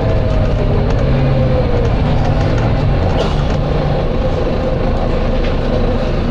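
Volvo B9TL double-decker bus running, its engine drone with a slowly shifting whine. A brief faint hiss about three seconds in.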